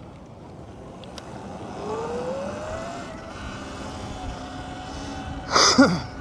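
Surron X electric dirt bike's motor whining over wind and road noise, the whine rising in pitch as it speeds up about two seconds in. Near the end comes a brief loud whoosh with a falling pitch.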